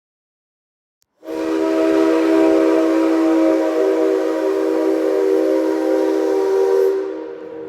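A locomotive whistle sounds one long, loud blast of several steady tones together. It starts about a second in and cuts off near the end.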